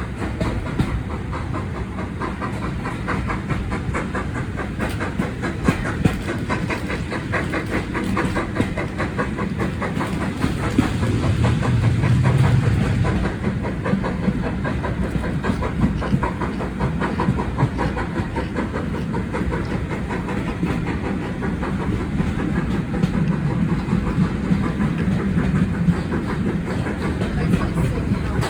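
Railway carriage running along the line: a steady rumble with a quick, rhythmic clickety-clack of wheels over the rails, swelling louder about halfway through.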